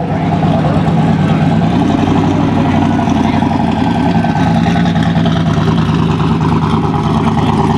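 Drag-race car engines idling loudly and steadily, the nearest a blue third-generation Chevrolet Camaro on racing slicks rolling up to the starting line after its burnout, with a second race car alongside.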